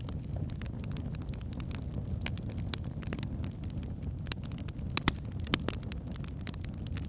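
Wood fire of burning logs in a fireplace, a steady low rumble of the flames with irregular sharp crackles and pops, two louder pops a little after five seconds in.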